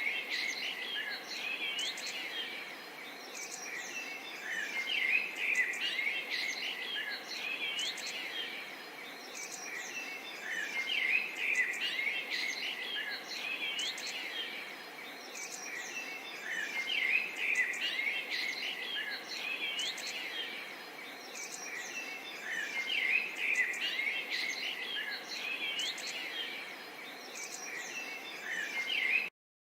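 A chorus of many birds chirping and whistling at once: dense overlapping short calls and quick rising whistles that swell and fade in waves every few seconds, cutting off suddenly near the end.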